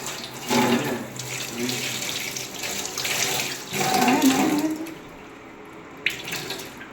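Water running from a tap into a sink, with a few faint bits of voice over it, stopping about five seconds in; a single sharp knock follows near the end.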